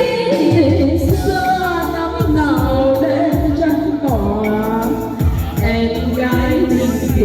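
Women singing a Vietnamese song over accompaniment with a steady beat.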